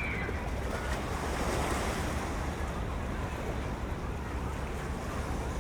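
Wind buffeting the microphone with a steady low rumble over a wash of outdoor noise, which swells briefly about two seconds in.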